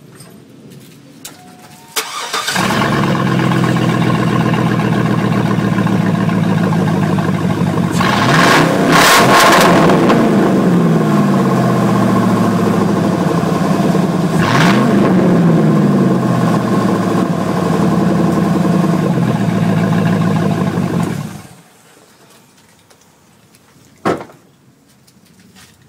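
A 2001 GMC Sierra's 5.3-litre V8, running open true dual exhaust with the mufflers cut off, is cranked and starts about two seconds in. It runs steadily, is revved up and back down twice (once about a third of the way through, again just past halfway), then is shut off abruptly. A single short knock follows near the end.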